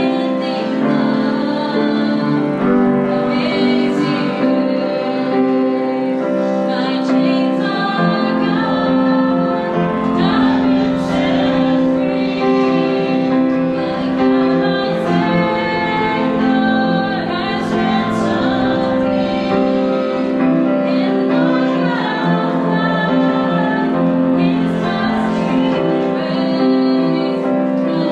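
Worship song sung by a woman's lead voice with congregation and instrumental accompaniment, with long held notes.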